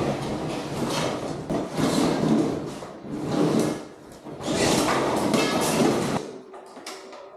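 Repeated scraping and sliding noises in several long swells, quieter near the end.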